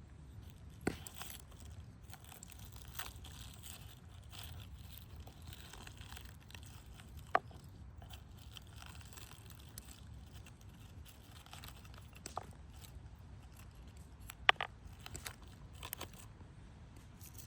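Hands preparing food: soft rustling and scraping with scattered sharp taps and clicks a few seconds apart, the two loudest about seven and fourteen and a half seconds in.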